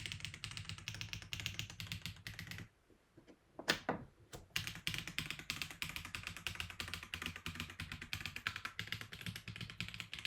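Akko 5075B Plus mechanical keyboard typed on quickly, a dense rapid patter of keystrokes. The typing stops briefly about a third of the way in, a few separate key presses follow, the first one the loudest, and then fast typing resumes.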